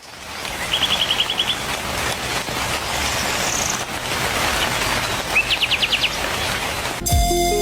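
Small birds calling over a steady rushing hiss of forest ambience: a quick trill of about seven high chirps about a second in, and another, led by a rising note, a little after five seconds in. Music comes back in near the end.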